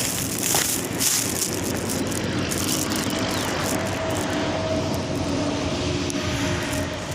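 Engine drone with outdoor background noise; a steady hum comes in about three seconds in.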